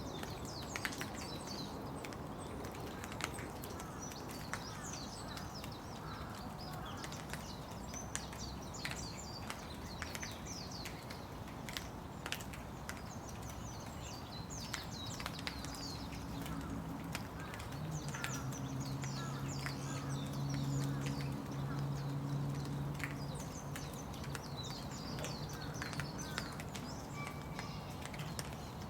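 Steady rain with scattered drops tapping close by, and small birds chirping throughout. A low steady hum comes in about halfway and fades near the end.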